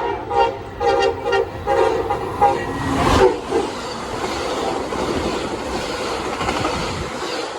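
Train horn sounding several short blasts, then a loud whoosh about three seconds in as the train goes by close, followed by the steady rush and rumble of its cars passing, fading near the end.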